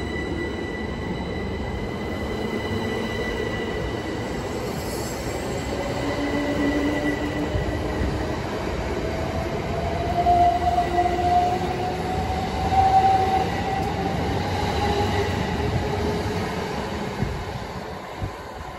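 Southern Class 377 electric multiple unit pulling away and accelerating, with a low rumble of wheels on rail and a motor whine that rises slowly in pitch. It fades as the train draws away near the end.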